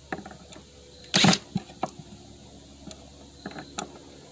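Light clicks and knocks of tools and wood being handled at a workbench, with one short, loud, noisy burst about a second in.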